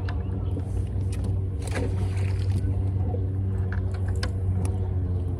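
Steady low mechanical hum on a fishing boat, with a few light knocks and clicks over it.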